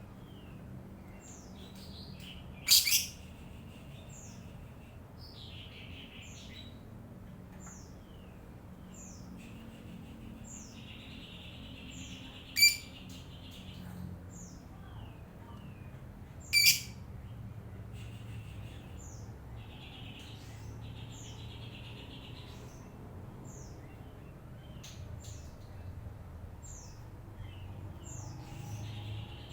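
Lovebirds chattering: a steady run of short, high, falling chirps over buzzy twittering, broken by three loud shrill calls.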